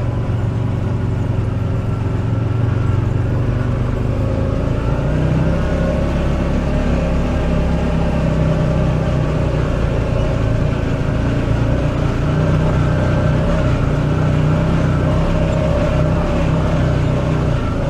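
Buggy engine running as it is driven: a steady engine drone whose pitch rises a little a few seconds in, then holds.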